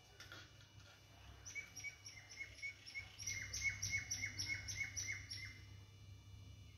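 A bird calling, a quick run of short repeated chirps at about four a second, starting about a second and a half in and stopping near the end.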